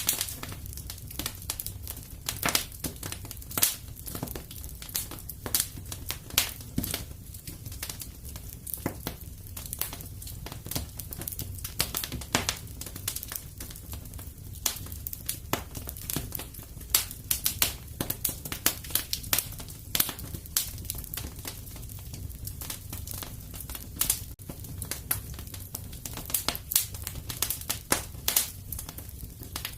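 Fire in a fireplace crackling, with irregular sharp pops several times a second over a low steady rumble.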